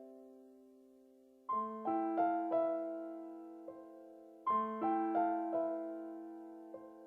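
Background music: a slow piano melody, notes struck in short phrases and left to ring out, a new phrase starting about every three seconds.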